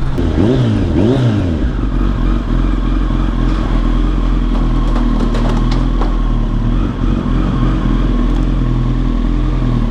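Kawasaki ZX-10R inline-four sport bike engine revving up and down twice, then running steadily.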